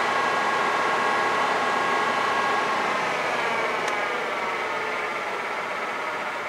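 1991 Ford F150's 4.9-litre (300 cubic inch) inline-six idling steadily just after a cold start, with a steady whine over the engine note; the owner suspects a failing idle air control motor behind its bad idle.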